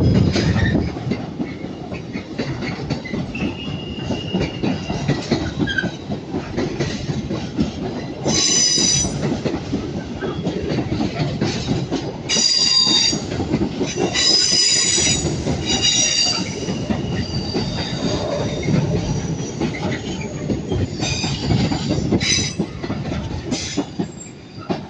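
Avanti West Coast Class 390 Pendolino electric train pulling out, a steady low rumble of wheels over rail joints with clickety-clack. High-pitched wheel flange squeals break in several times, longest around eight seconds in and again from about twelve to sixteen seconds.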